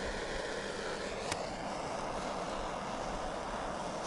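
Portable gas burner running with a steady rushing hiss, lit to heat a kettle; a faint click about a second in.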